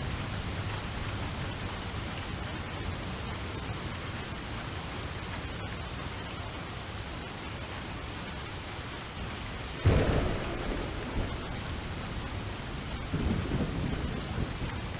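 Steady rain falling in a thunderstorm. About ten seconds in, a sudden sharp thunderclap rumbles away, and a second, softer roll of thunder follows near the end.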